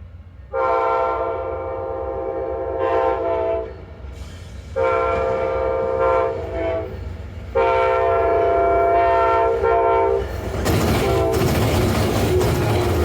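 A train's multi-chime locomotive air horn sounding three long blasts and a short fourth, then the train passing close by with a loud rush of wheel and rail noise from about eleven seconds in.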